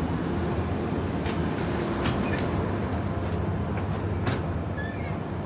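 Steady low rumble and hum of a high-speed train, with a few light clicks and knocks.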